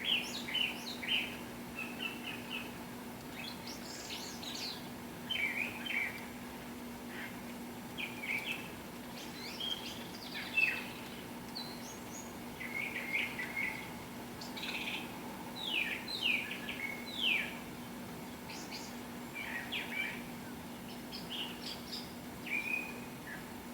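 Several songbirds singing and calling, with short chirps, quick trills and fast up-and-down sweeps that overlap and come every second or so. A faint steady low hum runs underneath.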